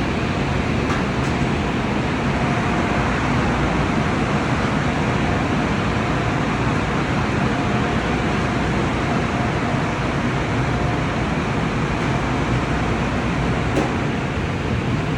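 Tunnel car wash equipment running: a steady, even rushing noise of sprays and machinery, with a faint tone coming and going.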